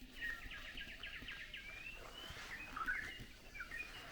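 Several small birds chirping and calling: quick runs of short high chirps and a few short rising whistles, over a faint background hiss.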